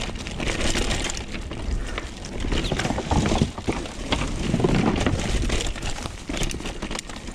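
Mountain bike riding down a rough dirt trail, its tyres crunching over loose ground and the bike rattling with many irregular knocks, over a steady low rumble of wind on the microphone.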